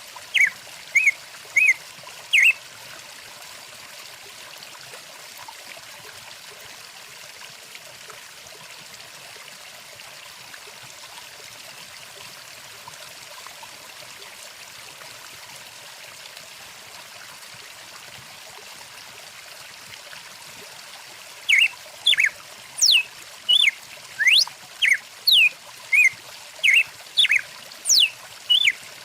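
Stream water running steadily, overlaid by bursts of short, sharp, repeated bird calls, several sweeping down in pitch. The calls come in the first couple of seconds and again thickly over the last several seconds, with water alone in between.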